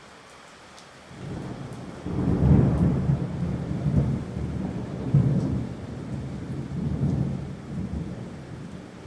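A long roll of thunder over falling rain: the rumble starts about a second in, swells through several loud peaks and dies down near the end.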